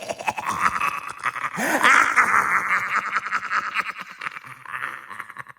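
An electronically distorted voice with a rapid warbling flutter, making wordless sounds that slide up and down in pitch, then fading out near the end.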